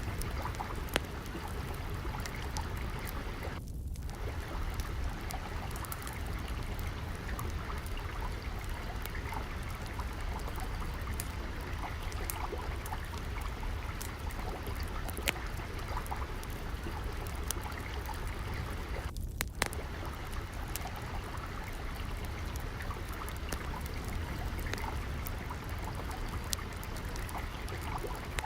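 Steady flowing water with a wood fire crackling over it in frequent small sharp pops.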